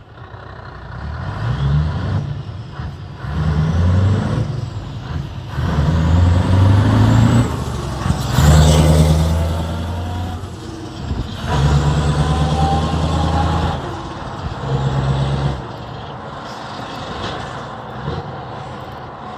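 Scania R500 V8 diesel truck engine with an open exhaust pipe, revved again and again in blips of one to two seconds, then settling back to idle near the end.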